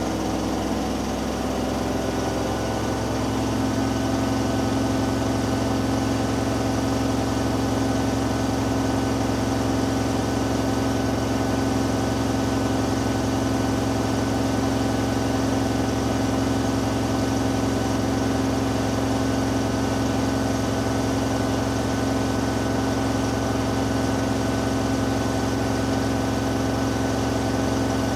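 Hoover Dynamic Next washing machine in its final spin: the motor and drum shift in pitch for the first few seconds, then hold a steady high-speed whine and hum.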